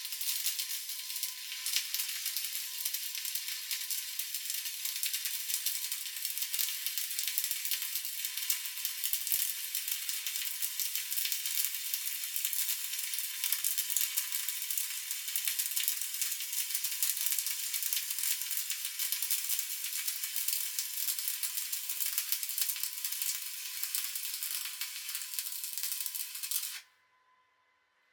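Stick (SMAW) welding arc on steel plate, crackling and sizzling steadily as a bead is run. It cuts off suddenly about 27 seconds in as the arc is broken.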